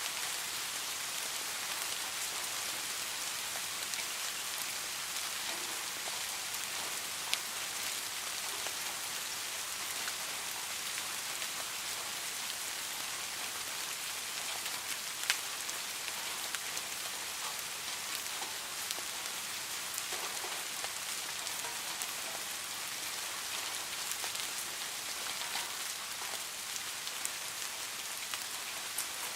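Steady rain falling: an even hiss of drops, with individual drops ticking sharply here and there, a couple of them louder.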